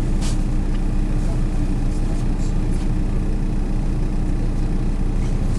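MAZ 103 city bus heard from inside the cabin: a steady engine drone and road hum, with a few short clicks or rattles.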